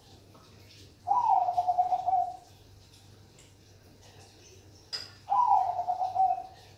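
Male zebra dove (perkutut) cooing: two song phrases about four seconds apart, each a quick trilled coo that starts high and slides down. A sharp click comes just before the second phrase.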